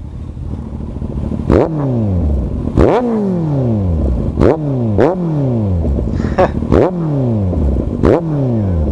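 Kawasaki Z800 inline-four engine revved in about six sharp throttle blips, each rising fast and then falling away as the revs drop, through an aftermarket exhaust with its dB killer removed.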